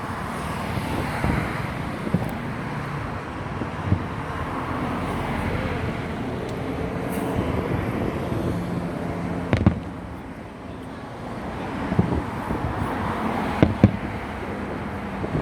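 Fireworks bursting: several sharp bangs at irregular intervals, the loudest coming in a cluster in the last third, over a steady background of outdoor noise.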